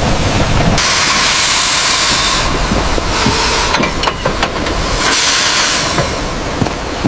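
Steam hissing out under pressure in loud stretches: the first starts abruptly about a second in and lasts a couple of seconds, and a second, shorter one comes near five seconds, over a low rumble with scattered clicks.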